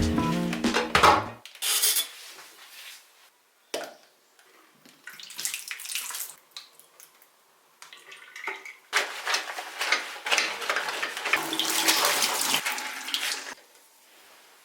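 Tap water running into a sink in several spells, with light clatter of items being rinsed and handled.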